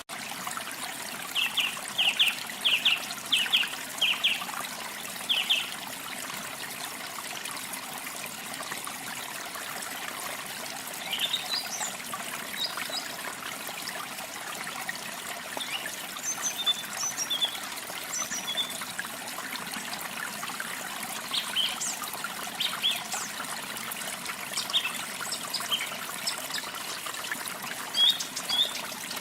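A steady trickle of running water with small songbirds chirping over it. A quick run of about seven chirps comes in the first few seconds, followed by scattered, higher chirps for the rest of the time.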